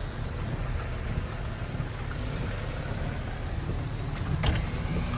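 Car driving in the rain: a steady low rumble of engine and road noise, with one sharp knock about four and a half seconds in.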